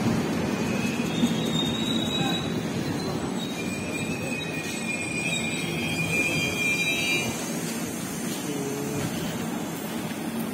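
Express train coaches rolling along the platform and slowing to a stop. Brakes squeal in thin high tones from about a second in until about seven seconds in, over a running rumble that slowly fades.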